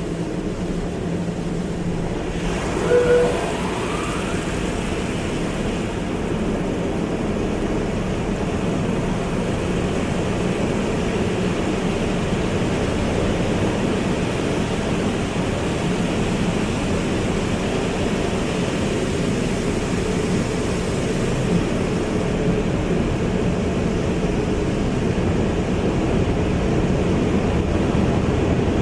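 Automatic car wash running: a steady rush of water spray and machinery, with a short squeak about three seconds in.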